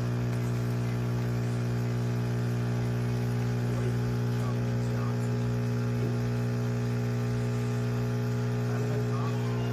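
Espresso machine's vibratory pump running with a steady, loud low hum and buzzing overtones.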